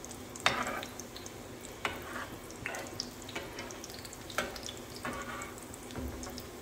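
Breaded chicken kababs sizzling as they shallow-fry in oil in a pan, with a slotted spatula scraping and clicking against the pan about seven times.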